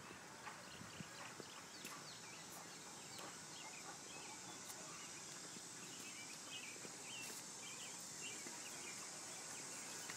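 Faint outdoor garden ambience: a steady high hiss with scattered short chirps, busier in the second half, and an occasional light click.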